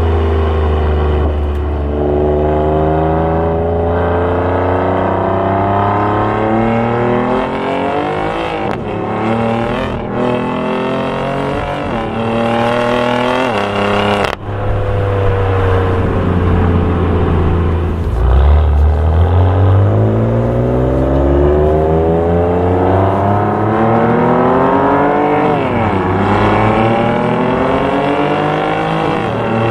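BMW F8x M3/M4's twin-turbo straight-six, through a Fabspeed valved cat-back exhaust, accelerating hard through the gears. The engine note climbs steadily in pitch and drops sharply at each upshift, several times over, with a sudden break about halfway through.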